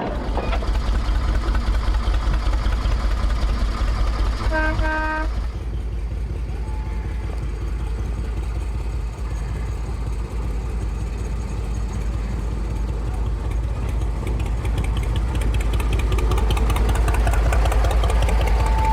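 Small narrow-gauge Ruston LBT diesel locomotive engine running steadily with a low rumble, with one short horn toot about five seconds in.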